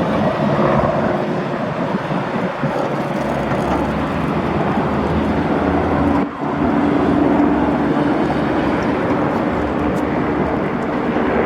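Eurocopter AS350B2 Écureuil police helicopter in flight, its single turbine engine and rotor making a steady drone with a low hum. The sound drops out briefly about six seconds in.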